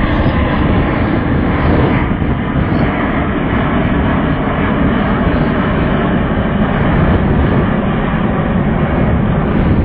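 Airbus A380 airliner's four jet engines roaring steadily as it flies past, muddied by wind on a camera phone's microphone.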